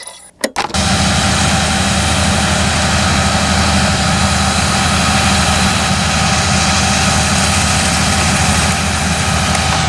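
Large farm machinery engine running steadily, with a machine whine over its low drone; it comes in suddenly just under a second in, after a few clicks.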